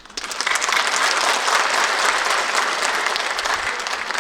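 Audience applauding: clapping breaks out suddenly, builds over about a second, then holds steady.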